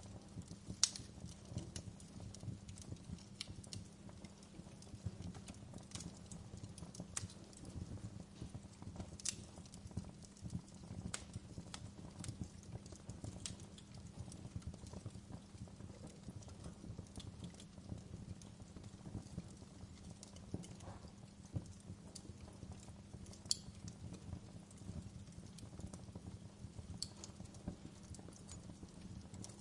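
Wood fire burning: a steady low rumble with sharp crackles and pops at irregular intervals, a louder pop about a second in.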